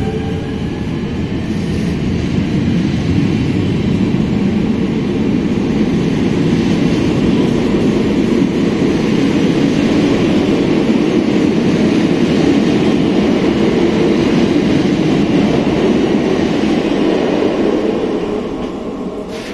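VB2N double-deck passenger coaches rolling past at close range as the train pulls away from the station, a steady rumble of wheels on rail that fades near the end as the last car draws off.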